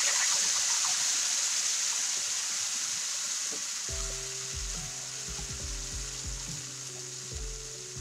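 Wet tomato-cashew paste sizzling in hot oil in a non-stick pan, the sizzle loudest at first and dying down slowly as the paste settles in the oil. Background music with a steady beat comes in about halfway.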